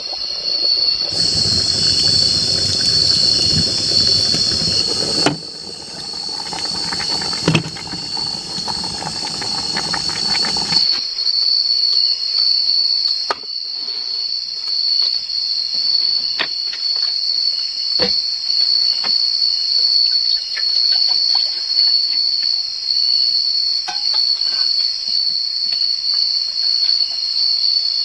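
A steady high-pitched drone of insects, with the even hiss of heavy rain over it for about the first ten seconds, cutting off abruptly. After that, scattered single ticks and taps sound over the insect drone.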